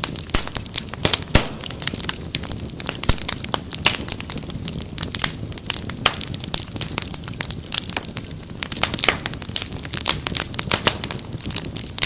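Wood fire crackling: frequent irregular sharp pops and snaps over a low, steady rumble of burning.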